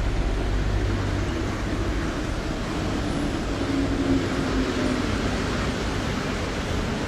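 Chongqing light-rail train running past: a steady rumbling noise, with a faint hum that swells and fades around the middle.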